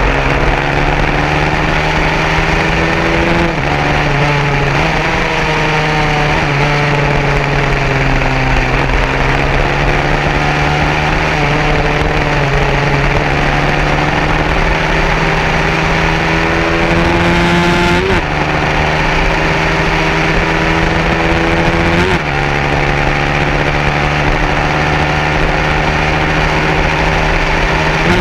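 150cc racing motorcycle engines at full throttle. The pitch climbs through each gear and drops sharply at each of several upshifts, over a steady low drone.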